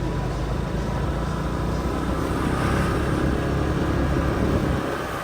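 Motorbike engines and street traffic running steadily. The sound grows a little louder toward the end, then eases off.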